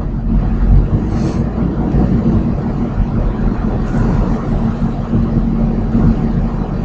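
Steady engine and road noise heard inside a moving car's cabin: a low, even hum with tyre rumble.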